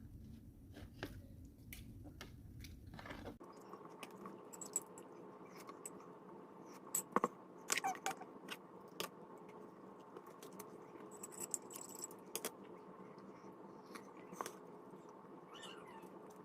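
Faint eating sounds: chewing with scattered sharp clicks of cutlery on a dish, the loudest a few between seven and nine seconds in. A low rumble stops about three seconds in and a steady hum follows.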